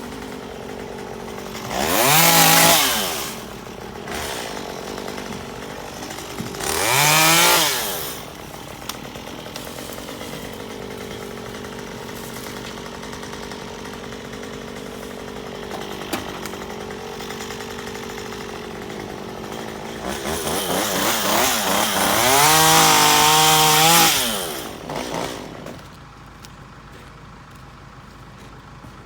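Gas chainsaw idling, revved up briefly twice, then held at full throttle for about four seconds while cutting through the tree trunk. The engine sound drops away to a much quieter level near the end.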